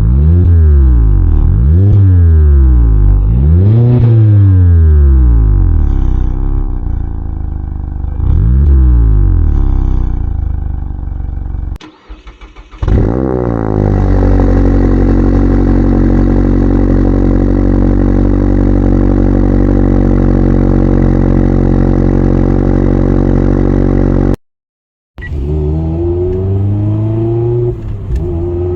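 Mazda MX-5 Miata with an aftermarket exhaust, revved in four quick blips that rise and fall, then held at a steady engine note for about ten seconds. After a brief dropout the engine note rises again near the end.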